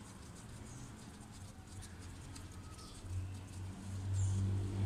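Faint small clicks and rustles of hands fitting the ignition coil's hold-down bolt, then a low steady hum that starts about three seconds in and gets louder near the end.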